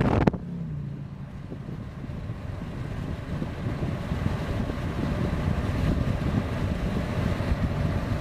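A low, steady engine rumble that slowly grows louder.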